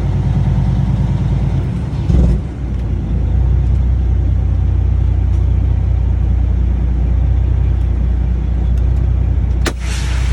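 Cummins ISX inline-six diesel on six-inch straight pipes running with a loud, steady low drone; about two seconds in the sound briefly jumps and then settles into a lower drone. A short hiss comes near the end.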